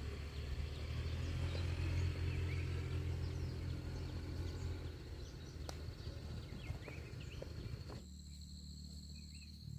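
Rural outdoor ambience: insects buzzing in a steady high tone, with scattered short bird chirps over a low steady hum that fades about halfway through. Near the end the sound changes abruptly to a quieter insect drone.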